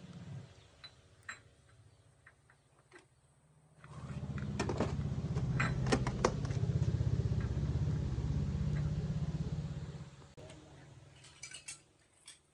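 A motor runs steadily for about six seconds, starting about four seconds in and stopping sharply near the end, with sharp metal clinks over its first seconds; light metallic clinks and taps come before and after it.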